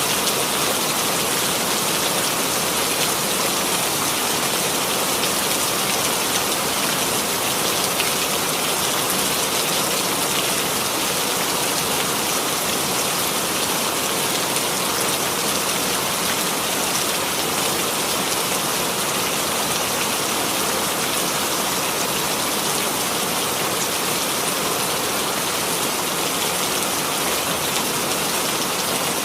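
Steady rain falling on a surface, a dense even patter of many drops without pauses.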